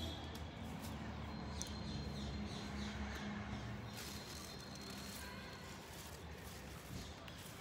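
Birds chirping in the background, with a run of short, quick falling chirps about two seconds in and thin high calls later, over a low steady hum.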